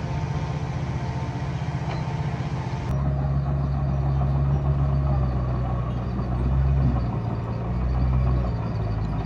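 Diesel engine of heavy earthmoving equipment running steadily, then after an abrupt change about three seconds in, working harder with a rising and falling load.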